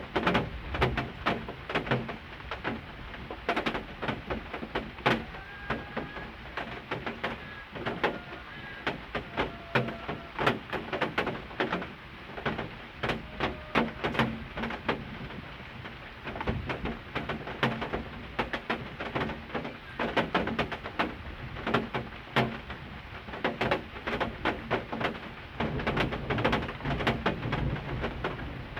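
Pigeons cooing against a dense run of irregular sharp knocks and taps that never stops.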